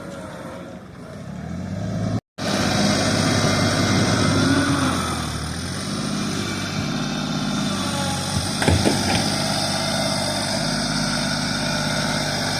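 Tractor engine running steadily under work. It drops out briefly about two seconds in, then runs louder, with two short knocks about two-thirds of the way through.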